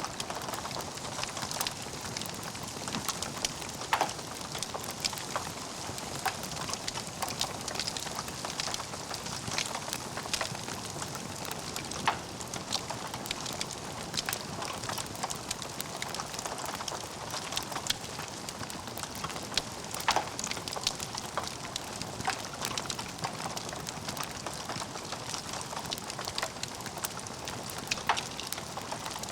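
Wood fire burning in a fireplace: logs crackling continuously, with a few sharper, louder pops every several seconds.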